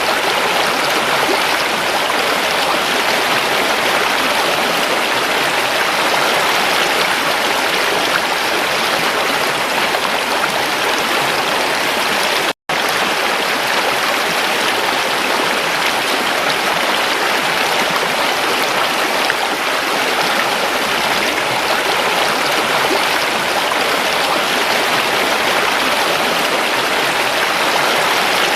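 Creek water running steadily over rocks, a continuous babbling rush. The sound cuts out for an instant about halfway through.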